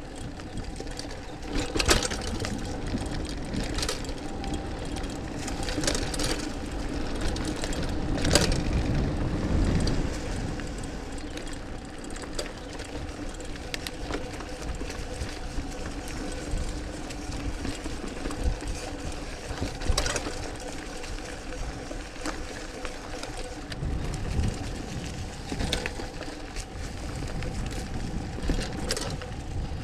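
Trek Mamba mountain bike ridden along a dirt trail: tyre rumble and drivetrain rattle, with sharp knocks as it hits bumps every few seconds and a steady hum underneath.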